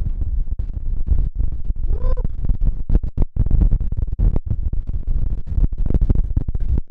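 Strong wind buffeting the microphone: a low rumble broken by rapid, irregular cracks and rustles, with a brief short tone about two seconds in.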